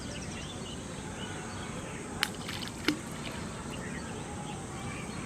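Outdoor pond-side ambience with faint, short bird chirps over a steady background hiss, broken by two sharp clicks about two and three seconds in.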